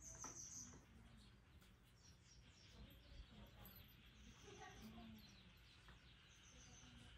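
Near silence, with faint distant birds calling: short high trills about three times, near the start, midway and near the end.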